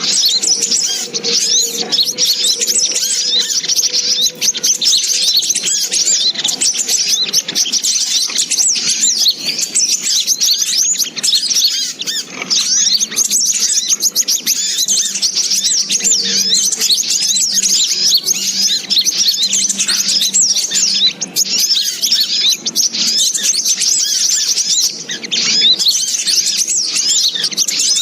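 Bird-luring call recording of sogok ontong (little spiderhunter): a dense, unbroken chorus of rapid high-pitched chirps, as if from many birds at once.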